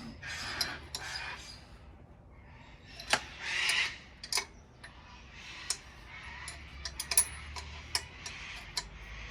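Irregular sharp metallic clicks and taps from hand tools and parts being handled while working on a tractor, with two short scuffing, rustling noises near the start and about three and a half seconds in.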